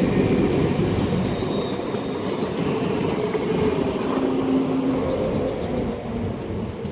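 Two coupled Class 334 electric multiple units running into the platform and slowing. There is a dense rumble of wheels on rail with a thin high whine at times, and it gradually dies down.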